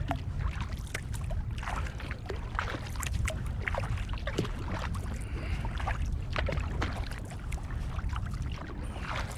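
Kayak paddling: paddle blades dipping and pulling through calm water, with splashes and drips coming irregularly, several a second, over a steady low rumble.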